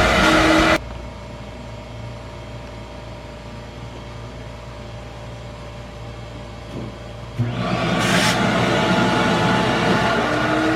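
Commercial ice machine running with a steady mechanical noise. The noise cuts off sharply about a second in, leaving a low hum, and comes back just as sharply near the end, with a steady tone under it.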